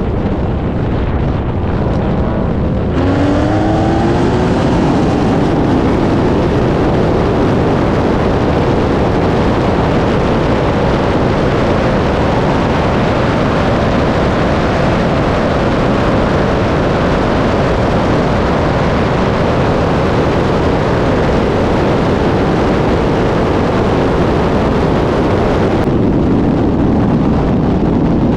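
Race cars accelerating hard in a roll race: an engine note climbs near the start, then a loud, steady rush of engine and wind noise.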